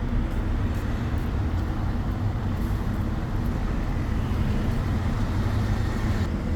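Road traffic passing: a steady, low rumble of engines and tyres from cars, vans and larger vehicles.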